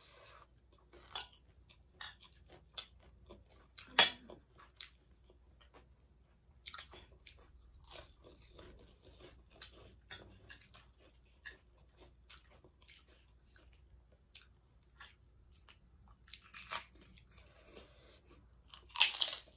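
Close-up chewing and crunching of crisp chatpate, a spiced puffed-rice snack, with scattered small crackles throughout. There is a sharp click about four seconds in and a louder crunch just before the end.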